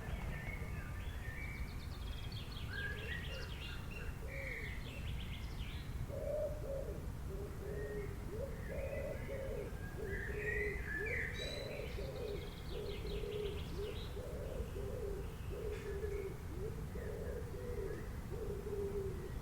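Birds calling together: higher chirps and trills, joined about a third of the way in by a run of low, short, repeated cooing notes, over a steady low rumble.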